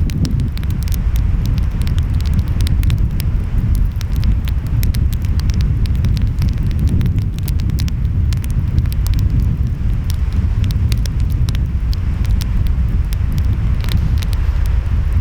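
Wood fire crackling with frequent sharp pops and snaps over a steady low rumble of ocean waves and wind.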